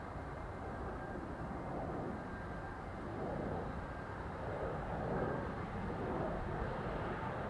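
Steady rumbling jet noise from a four-engined Airbus A380-800 heard at a distance, with no sudden events.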